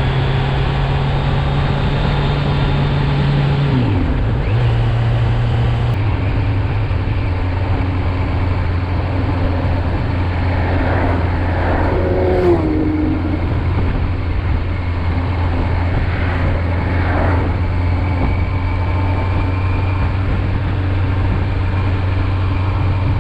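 Riding on a Kawasaki Z900 (A2-restricted 35 kW version), its inline-four engine running at a steady cruise; about four seconds in the engine note dips and settles lower, then stays steady.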